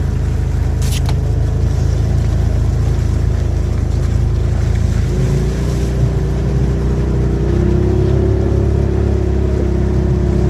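Engine running steadily, its pitch stepping up slightly about halfway through.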